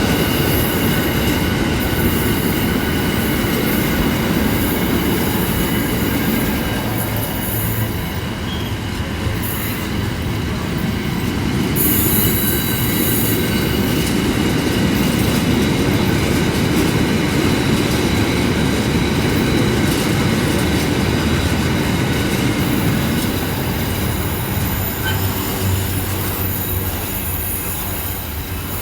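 Container wagons of an intermodal freight train rolling through steadily, with clickety-clack over the rail joints and a thin, high, steady wheel squeal.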